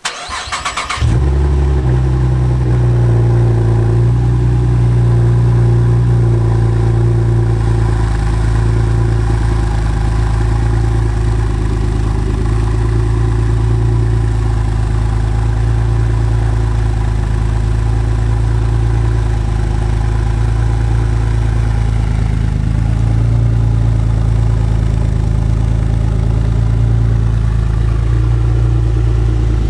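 V6 Camaro engine, breathing through an aftermarket exhaust with an X-pipe, resonators and Jones Full Boar mufflers, cranks and catches about a second in, then idles steadily with a deep exhaust note.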